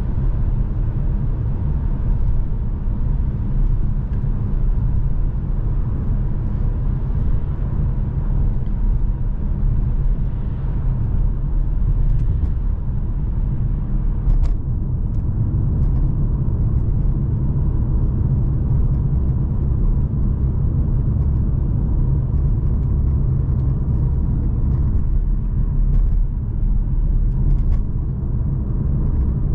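Steady low rumble of a 2020 Mercedes C43's 3.0-litre twin-turbo V6 and road noise while driving at an even pace, with no revving.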